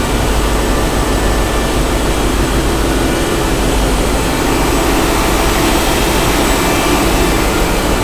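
Ship's engine room: large marine engines running steadily, a loud dense roar with a deep rumble underneath and a faint steady hum.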